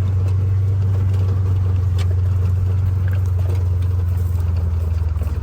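A vehicle's engine idling: a steady low hum that does not change.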